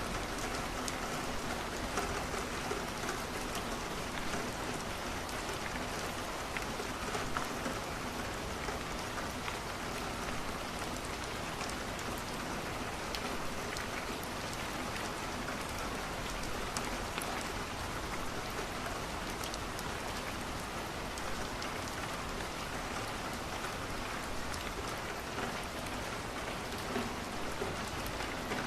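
Steady rain falling against a window, a continuous hiss with scattered sharp crackles from a wood fire burning in a fireplace.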